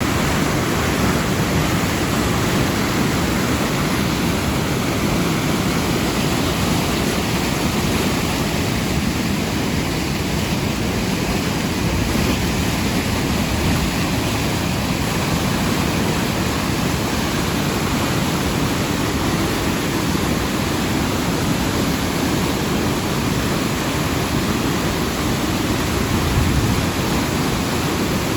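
Waterford River in flood after heavy rain: a steady, loud rush of fast-flowing floodwater.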